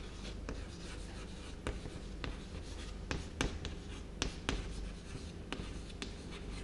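Hand writing on a classroom board: a string of irregular short strokes and light taps of the writing tip against the board.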